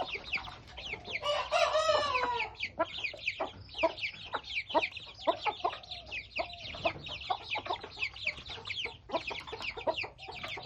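A brood of young Thai game-fowl chicks peeping continuously, many short high cheeps that fall in pitch. A longer, lower call from an adult chicken, a rooster crow, sounds from about a second in to about two and a half seconds.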